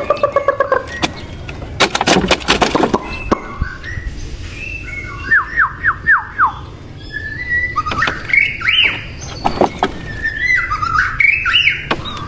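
Birds calling: a run of quick rising chirps and squawks, with a few sharp knocks about two seconds in.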